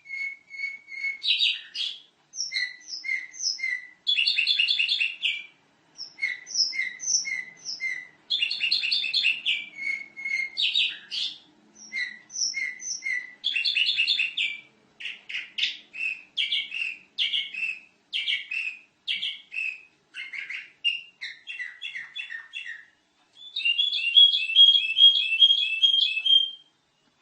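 Domestic canary singing a long, varied song: fast series of repeated notes and rapid trills, phrase after phrase with short breaks, ending in a sustained fast trill near the end.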